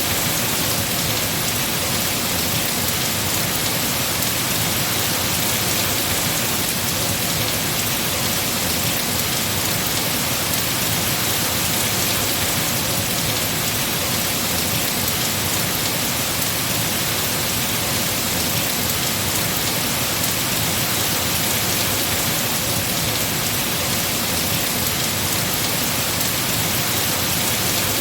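Heavy rain falling steadily on tree foliage, a dense unbroken hiss with no distinct drops or gusts standing out.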